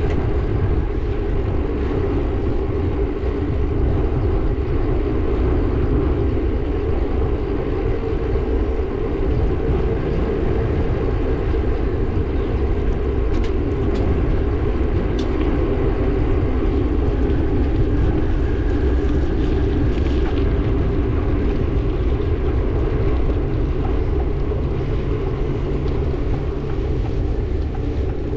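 Steady rush of wind and road noise heard while riding a bike along a road, heavy and low. A few faint ticks come about halfway through.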